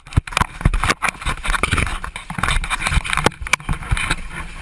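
Irregular knocks, bumps and scraping inside a ditched small plane's cabin as passengers scramble about, over a rough rushing noise.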